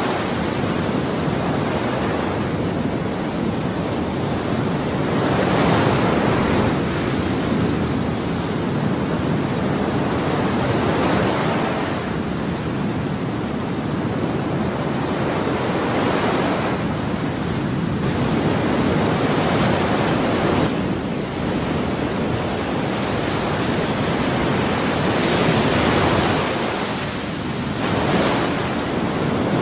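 Ocean surf: waves breaking and washing in a continuous rush, swelling and easing every few seconds.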